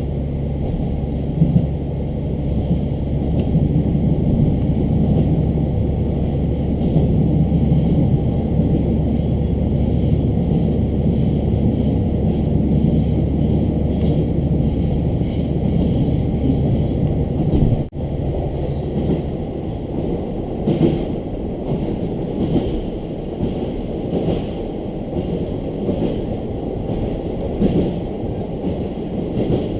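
Diesel railcar running on the line, heard from inside the car: a steady engine drone over wheel and rail noise. About two-thirds through, after a brief dropout, the engine drone stops and the train rolls on with wheel noise and a few short clicks.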